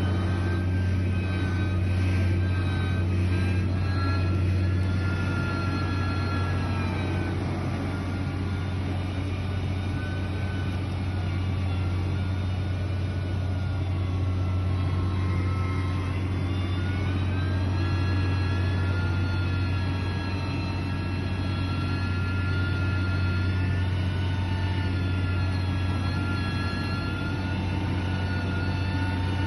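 Heavy construction machinery's engine running steadily, with a deep hum and a whine above it. The whine sinks about a quarter of the way in and climbs again a little past halfway, as the machine works.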